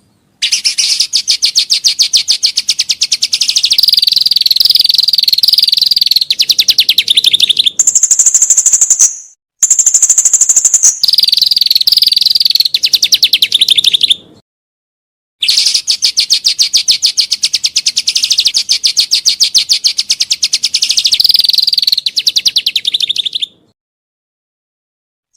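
A songbird singing long runs of fast, rapidly repeated high notes, some passages rough and buzzy and some clear and whistled, broken by a few short silent gaps.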